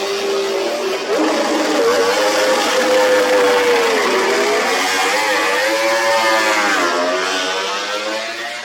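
MotoGP racing motorcycle engines running at high revs, their pitch rising and falling with the throttle, then fading near the end.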